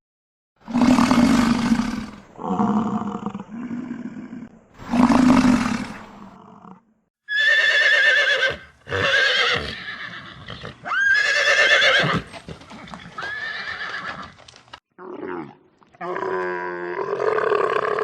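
A series of loud neighing, whinnying calls from a horse-like animal. Some are harsh and noisy, others high with a wavering, quavering pitch, separated by short gaps.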